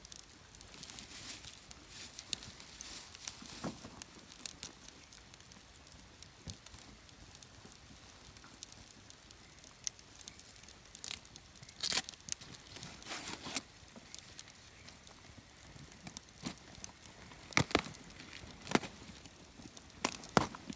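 Wood campfire crackling, with scattered sharp pops, several louder ones about halfway through and near the end.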